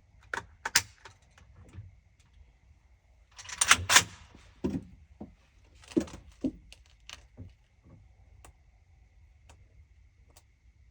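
Irregular clicks, knocks and rattles from handling a rifle and gear, loudest in a short rattling burst about four seconds in, thinning to a few light ticks near the end.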